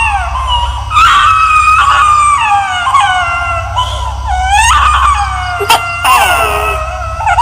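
Eerie crying-baby sound effect: a run of high-pitched wailing cries, each sliding down in pitch, coming about every second or two over a steady low hum.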